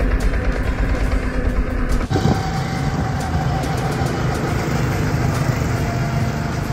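Small gasoline go-kart engines running as karts drive around the track: a steady engine drone that changes abruptly about two seconds in.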